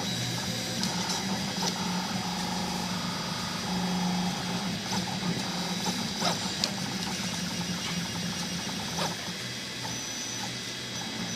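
Colido 3D printer printing: its stepper motors whine in short tones that keep changing pitch, over a steady low hum, with a few sharp clicks.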